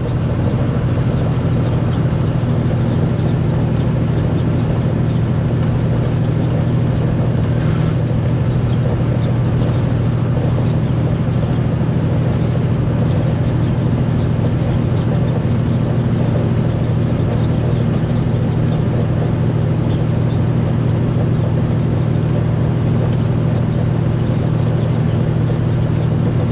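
Semi truck cab at highway cruise: a steady diesel engine drone with road and wind noise, unchanging throughout.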